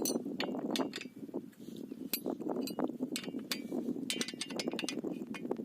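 Irregular metallic clinks and taps of tools on bolts while a pump's water pipe joint is being fitted and tightened, over a steady low background hum.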